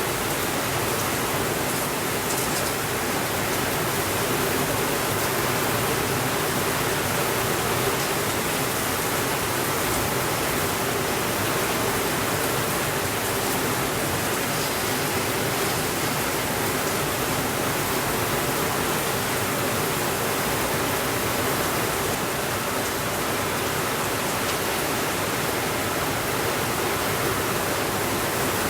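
Heavy rain falling steadily on a window, an even hiss, with a few faint crackles from a wood fire now and then.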